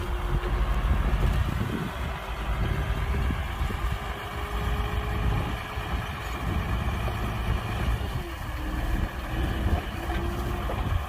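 Heavy diesel earthmoving machinery running, a steady low engine rumble with a faint whine that comes and goes.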